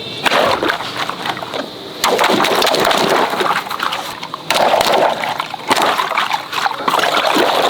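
Water splashing and sloshing in repeated irregular surges.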